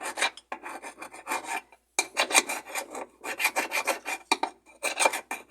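Rapid rasping, scraping strokes as caked rust and dirt are scrubbed off a seized part from the underside of a Consul 10 kg washing machine, with a short pause about two seconds in.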